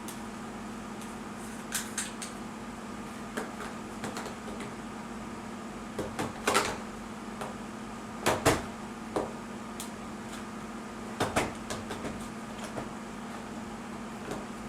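Irregular knocks and clacks of hard plastic parts, some in quick pairs, as threaded plastic feet are fitted into the holes of an upturned plastic shelf, over a steady low hum.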